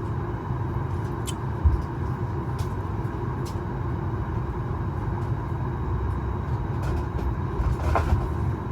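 Steady hum and rush of cabin ventilation inside a Boeing 737 MAX 8 cabin parked before departure, with a low rumble and a faint steady tone. Scattered small clicks and knocks, with a low thump about 1.7 s in.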